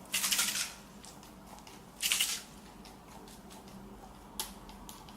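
Shaving-gel slime being worked by hand after borax is added to activate it: two short squishy, crackly bursts about two seconds apart, then a small click.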